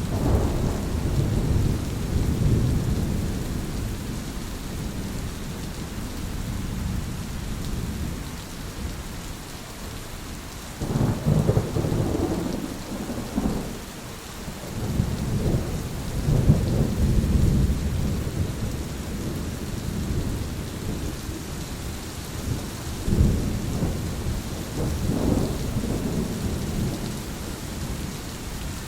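Thunderstorm: steady rain with rolling thunder, loud claps breaking out about a third of the way in and twice more later, each rumbling on for a couple of seconds.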